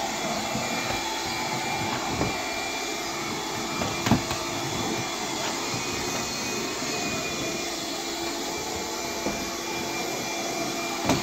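Bissell PowerGlide cordless vacuum running steadily as it is pushed over a hard floor. A few short knocks come through, the loudest about four seconds in, as the vacuum head bumps and pushes chairs around.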